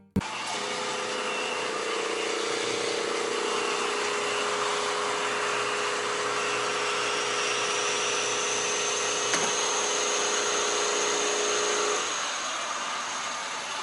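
A machine running steadily, a noisy whirr with a steady hum that stops near the end.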